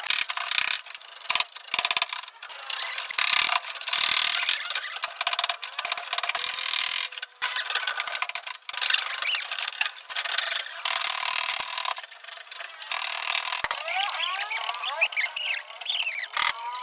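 Abrasive scraping and rubbing in irregular strokes, with brief squeaky pitch glides near the end.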